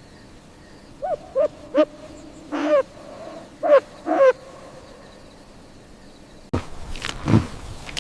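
Owl hooting: six short hoots with an arching pitch, three quick ones and then three more after a short pause. About six and a half seconds in, the sound cuts abruptly to a different animal call with a low note.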